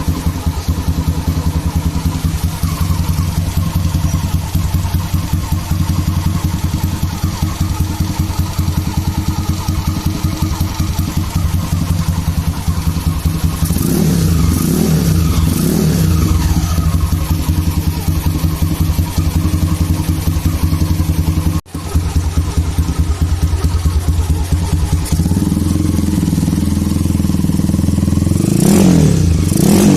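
Motorcycle engine running through a 50 mm CTS aftermarket muffler, idling with a steady low exhaust pulse. The throttle is blipped about halfway through and again near the end, the exhaust note rising and falling with each rev; the sound breaks off for an instant just after the first revs.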